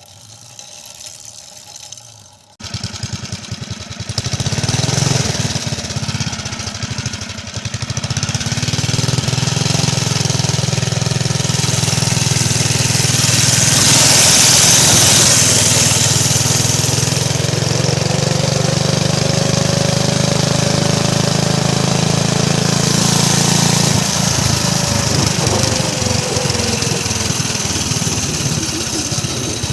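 Minibike's small gasoline engine, fed on fuel vapor from a vapor tank, starts about two and a half seconds in and keeps running. Near the end its sound grows uneven.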